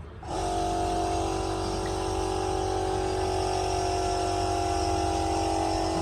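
An engine running steadily at constant speed, cutting in about a third of a second in.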